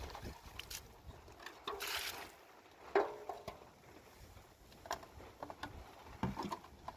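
Water splashing and sloshing in short irregular bursts, with a sharp knock about three seconds in and a few lighter knocks later.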